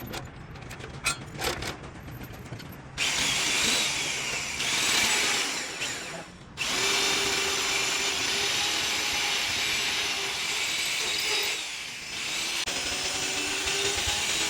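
A few sharp knocks, then a handheld power tool running on metal in three long runs, with brief breaks about six seconds in and near the end.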